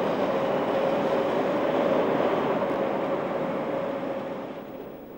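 Intercity train hauled by a DB Class 103 electric locomotive pulling out, its coaches rolling past with a steady rumbling rush and a steady tone through it. The sound fades away near the end.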